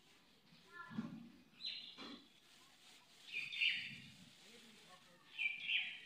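Birds chirping in short, high bursts twice, mixed with faint voices.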